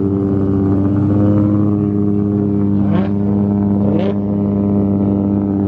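Loud car engine idling steadily, with two short rising throttle blips about three and four seconds in.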